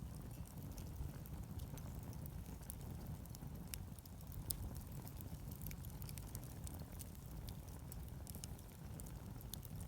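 Wood bonfire crackling: scattered sharp pops and snaps, several a second, over a steady low rumble.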